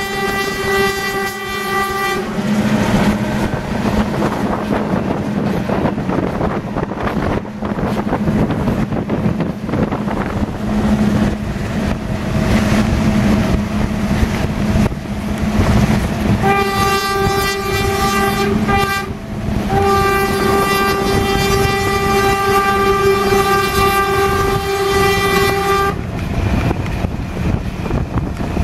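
Train running along the track, heard from an open carriage window, with steady rumbling and track rattle. The train's horn sounds at the start, stopping about two seconds in. After the middle it sounds again: first a broken blast, then a long one of about six seconds.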